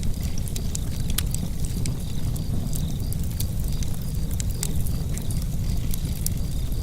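Wood fire crackling in a fireplace: many sharp pops and snaps scattered irregularly over a steady low rumble of the burning fire.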